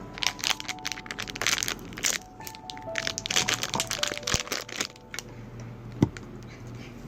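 Dense crinkling and crackling from something being handled, a quick run of small clicks for about five seconds and one sharp snap near the end, over soft piano music.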